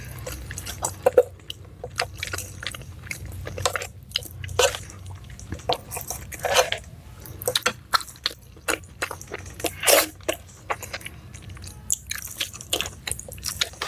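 Close-miked chewing of rice and curried beef-foot tendon (tunjang) eaten by hand, with wet mouth clicks and smacks coming irregularly, several a second.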